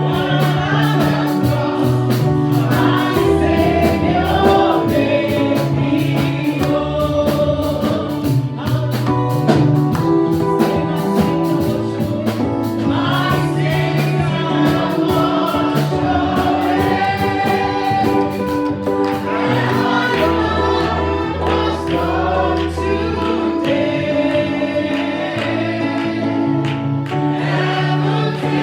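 Congregational gospel praise singing with a group of voices, backed by keyboard, bass and drums with a steady beat.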